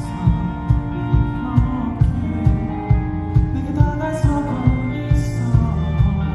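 Live pop-rock band music: sustained guitar and keyboard chords over a steady kick-drum beat of about two strokes a second, with a voice singing around the middle.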